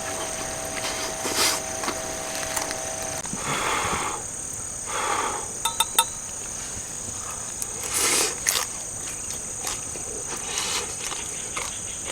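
Grass insects chirring steadily at a high pitch, with a few brief rustles and sharp clicks over it, loudest about eight seconds in.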